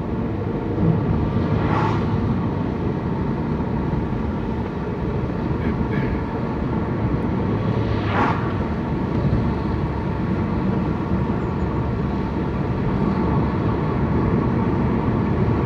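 Steady road and engine noise inside a moving car, with two brief sounds about two seconds in and again about eight seconds in.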